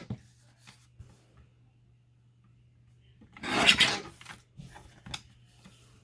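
Paper rubbed or slid across a work surface for about a second, with a few light taps and clicks around it.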